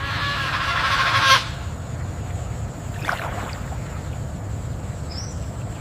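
A bird calls: one loud call lasting about a second and a half, then a shorter, fainter call about three seconds in. A steady low rumble runs underneath.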